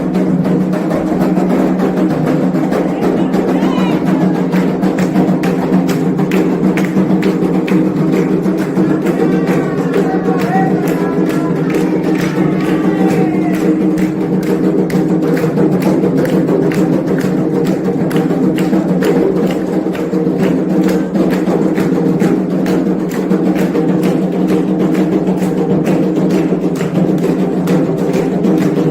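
Candomblé ritual music: fast, continuous drumming on atabaque hand drums with sharp percussion strokes, and voices singing over it, clearest about a third of the way in.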